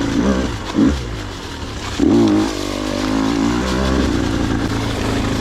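KTM 125 two-stroke dirt bike engine revving in short bursts, rising in pitch about a second and two seconds in, then holding a steadier note.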